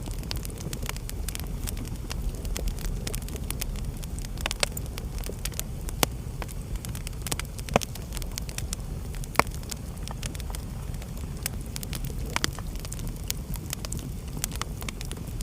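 Wood fire burning in a fireplace, crackling continuously with many small snaps and about five louder pops, over a low steady rumble.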